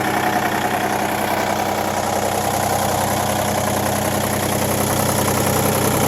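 Iseki TU180F tractor's 23-horsepower three-cylinder diesel engine idling steadily.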